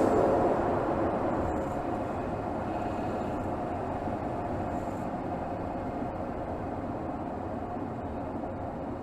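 Mercedes GLS 450's 3.0-litre turbocharged inline-six running, heard from under the bonnet, easing off after a strong pull. It is loudest at the start, drops over the first couple of seconds, then settles into a steady hum.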